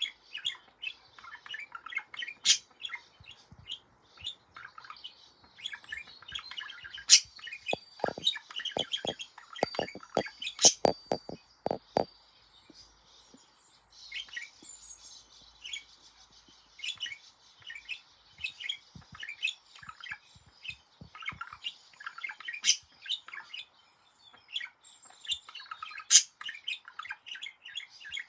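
Pet budgerigar singing: a fast, chattering warble of chirps, squeaks and whistled notes. A run of sharp clicks comes about 8 to 12 seconds in, and the song pauses briefly just after.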